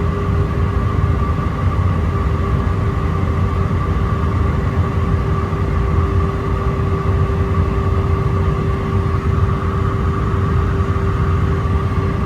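Steady cabin noise inside an Airbus A319-131 on approach: a deep rumble of airflow and its IAE V2500 turbofan engines, with a steady hum and a higher whine held level throughout.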